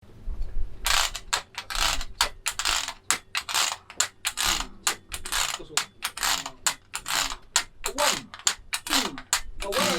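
Harmonica played as a train imitation: rhythmic breathy chugging, about two strokes a second. Low bending tones slide in and out over the chug near the end, as the song's intro builds.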